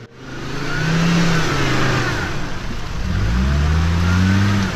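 An off-road SUV's engine revving hard twice, the pitch climbing each time, under a loud rushing noise.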